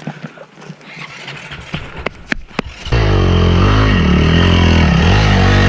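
A few knocks, then an enduro motorcycle engine starts about three seconds in and revs up and down loudly.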